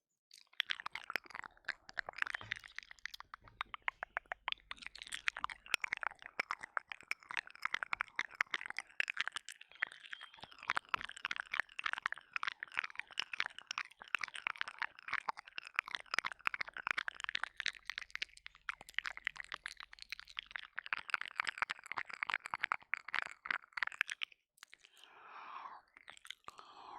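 Wet, close-up ASMR mouth sounds of licking and mouthing the ears of a 3Dio binaural microphone: a dense, continuous run of quick clicks and smacks, with a short, softer breathy stretch near the end.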